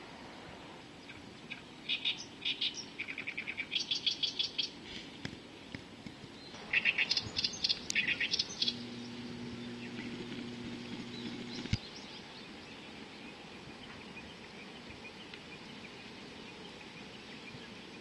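Birds calling in two bouts of rapid, repeated high chirps, about two seconds in and again about seven seconds in. A low steady hum runs for about three seconds in the middle and stops with a click.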